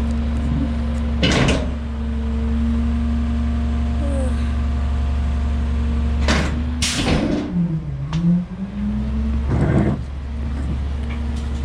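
Autocar McNeilus rear-loader garbage truck's compactor cycling: a steady engine and hydraulic hum with a held whine. Loud clanks come about a second in, twice around six to seven seconds, and again near ten seconds, and the hydraulic pitch dips and rises just past the middle as the packer works.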